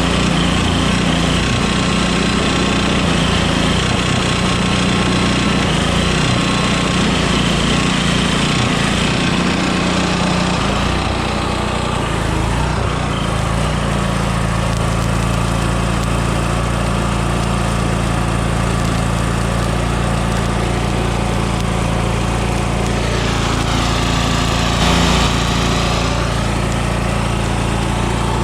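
Engine of an engine-driven welding generator, built around a WWII aircraft generator, running steadily; its note changes and settles about twelve seconds in.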